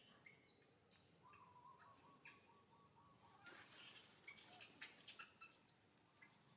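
Faint small birds chirping, with many short high chirps scattered throughout and one steady whistle-like note held for about two seconds in the first half.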